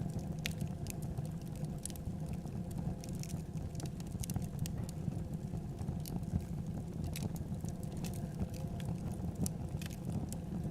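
Wood fire burning in a fireplace: a steady low rumble with scattered, irregular crackles and pops.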